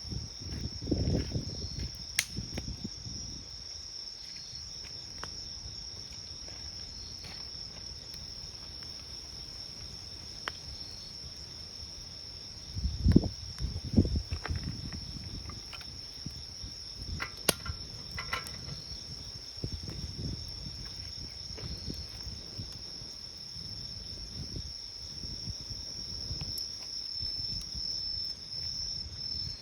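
Crickets trilling steadily, with fainter chirps repeating about every second and a half, over a crackling campfire that gives a few sharp pops. Low rumbles come at the start and again about halfway through, the loudest sounds here.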